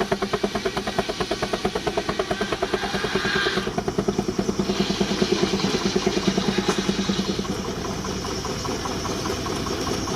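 Baker 19-65 Uniflow steam traction engine running steadily with a fast, even exhaust beat while driving a sawmill, with a hiss over it that drops out for about a second partway through.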